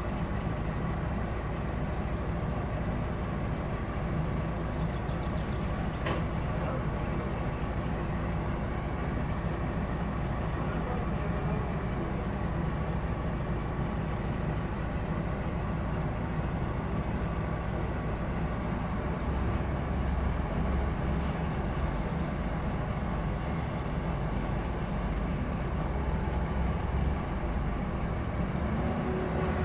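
Heavy diesel engine running steadily, its low rumble growing deeper and a little louder about two-thirds of the way in as it comes under more load.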